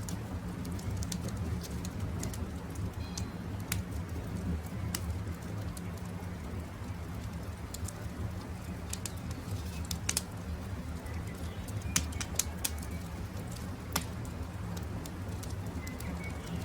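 Wood campfire crackling, with irregular sharp pops over a steady low rumble, and faint bird calls in the background.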